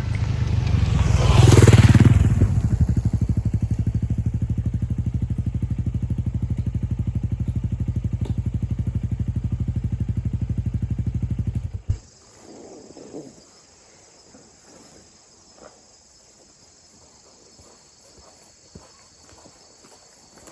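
Honda CRF250L's single-cylinder engine through a Yoshimura RS-4J Cyclone exhaust: one rev near the start, then an idle with an even, low beat. The engine is switched off, the sound stopping suddenly about twelve seconds in.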